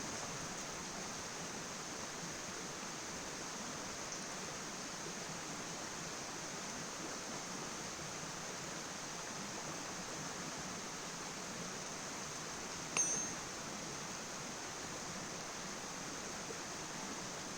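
Steady rushing of a river running past the camp, with a single sharp metallic clink that rings briefly about thirteen seconds in.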